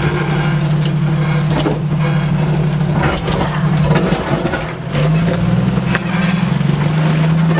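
Jeep Cherokee XJ engine running at low speed as the 4x4 crawls down a rock ledge. The engine note dips about halfway through, then picks up and holds a little higher, with a few short knocks.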